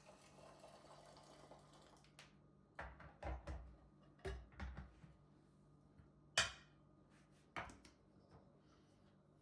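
Kitchen items being handled: a run of soft knocks and clunks, then a single sharp click about six seconds in and one more knock shortly after.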